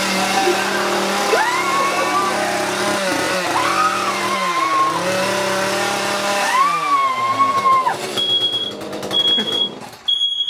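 Chainsaw running at idle and revved up three times, each rev rising, holding and dropping back, then cutting out. About eight seconds in, a smoke alarm starts beeping in short high beeps, three in a row.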